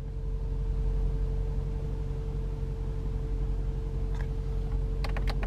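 Mercedes-AMG G63's twin-turbo V8 idling, heard from inside the cabin as a steady low rumble with a constant hum above it. A click about four seconds in, then a quick run of clicks near the end as the climate-control buttons are pressed.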